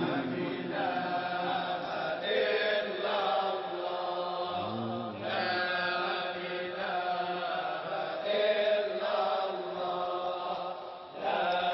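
Sufi dhikr chanting: voices in sustained, pitched phrases that shift pitch every second or two.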